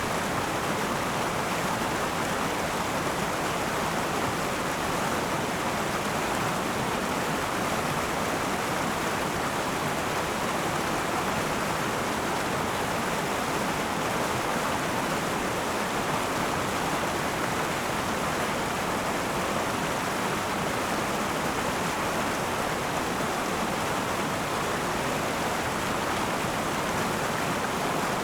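River water rushing steadily over rocks, a dense unbroken flow noise with no change in level.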